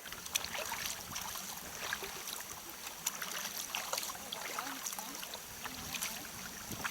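Water splashing and trickling around a sea kayak, with irregular small splashes from paddling.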